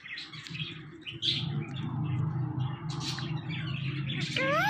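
Indian ringneck parrot making scattered short, soft chirps, then a rising-and-falling whistled note near the end, over a steady low hum.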